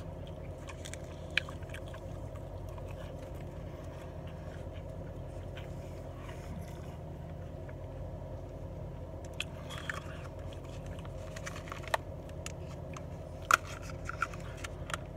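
A person biting and chewing fried fish close to the microphone, with a few sharp clicks, about a second and a half in and twice near the end, over a steady low hum inside a car.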